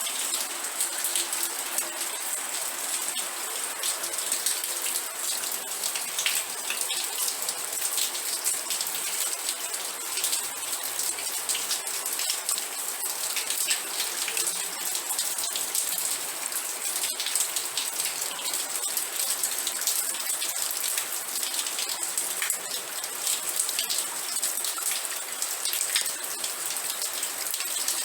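Steady rain, many small drops pattering on a surface in a dense, even hiss with no breaks.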